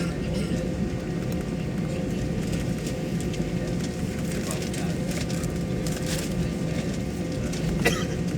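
Steady hum of an airliner cabin before takeoff, with a few faint clicks.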